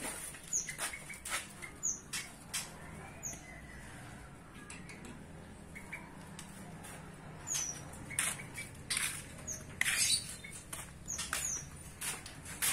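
Caged songbirds giving short, high, downward chirps every second or two, over scattered clicks and light rustling.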